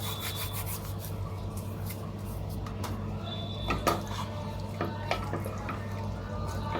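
Spoon stirring in a cooking pan of stew, with a few sharp clinks against the pan near the middle and a scraping squeak in between, over a steady low hum.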